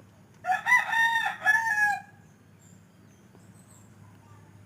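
A rooster crows once: one cock-a-doodle-doo about a second and a half long, starting about half a second in.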